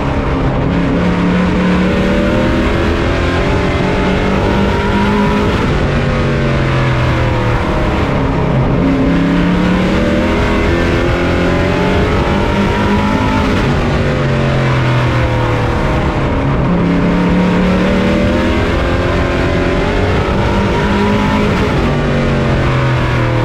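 On-board sound of a pro truck's race engine running hard, its pitch dropping and climbing back about every eight seconds, over constant wind and road noise.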